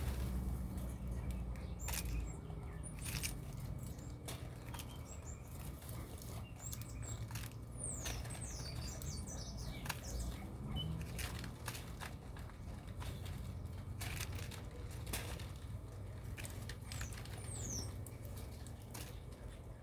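Small birds moving about with short clicks and wing flutters, and a few brief, high, falling chirps, over a steady low hum.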